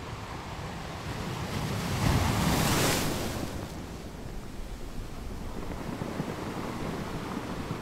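Wind and choppy sea washing, with a louder rush of wind and splashing water swelling about two seconds in and dying away a second or two later.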